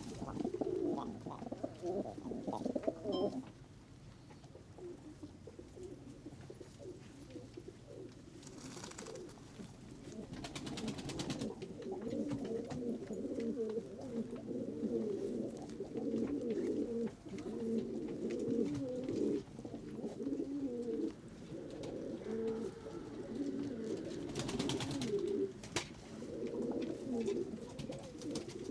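A flock of pigeons cooing together, a dense overlapping murmur that thins out for a few seconds and then swells again. Three times there is a short burst of rapid wing flapping, about a second long, as a pigeon flies in and lands.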